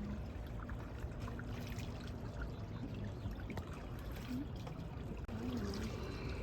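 Water trickling and splashing, over a steady low rumble, with faint voices in the background.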